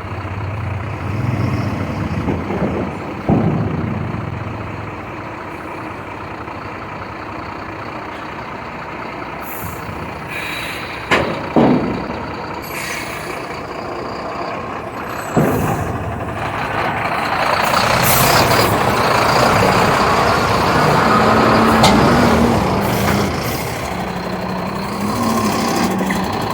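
Heavy 12-wheel BharatBenz diesel truck running, with a few sudden sharp sounds. A louder rushing noise builds through the second half.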